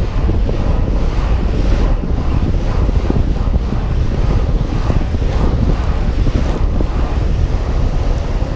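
Strong wind rushing over the microphone during a fast longboard run, a loud, steady buffeting rumble.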